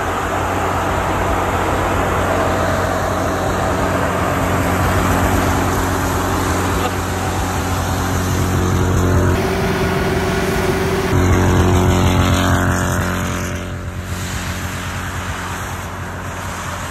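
Off-road 4x4 engines running hard under load while the vehicles push through deep snow, steady and loud. The sound changes abruptly about nine seconds in and again about eleven seconds in.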